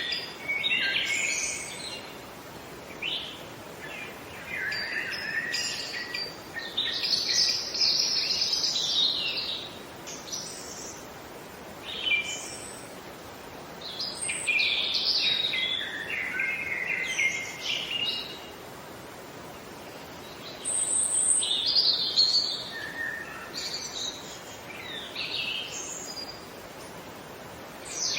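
Songbirds singing in chirping phrases of one to a few seconds, with short pauses between them, over a faint steady outdoor hiss.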